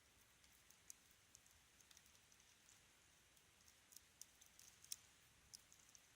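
Wood fire crackling in a fireplace: faint, irregular sharp snaps and pops over a soft steady hiss, the loudest snap about five seconds in.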